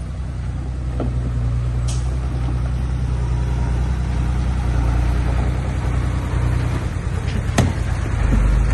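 Heavy construction machine's diesel engine running steadily, growing a little louder over the first few seconds, with a sharp knock near the end.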